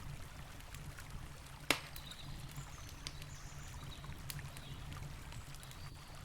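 Wood campfire crackling with scattered small pops and one louder snap about a second and a half in, over the steady low rush of a flowing river.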